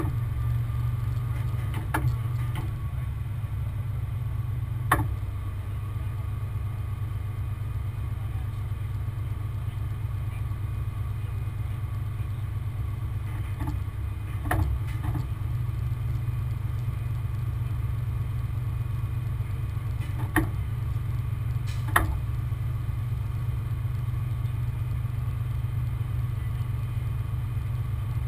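Heavy wrecker's diesel engine running steadily, with a few short sharp knocks scattered through it.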